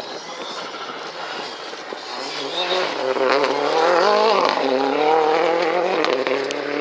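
Rally car engine running hard, its pitch rising and falling with throttle and gear changes. It grows louder from about two seconds in.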